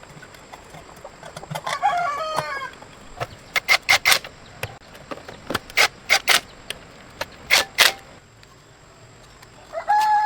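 A rooster crowing twice, once about two seconds in and again near the end. Between the crows comes a run of sharp knocks or clicks.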